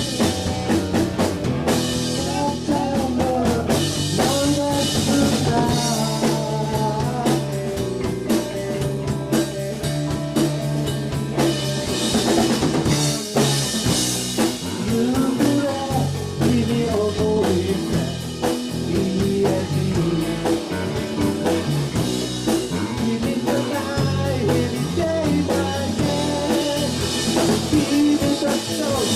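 Live rock band playing a song: drum kit, guitar and bass, with a voice singing the melody.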